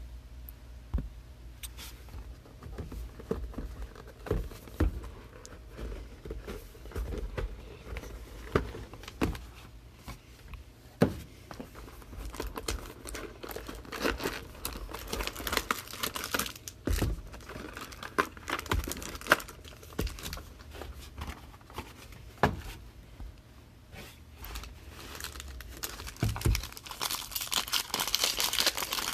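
Plastic wrapping on trading-card boxes and packs being crinkled and torn open, with scattered small knocks and clicks of handling. The crinkling gets louder near the end.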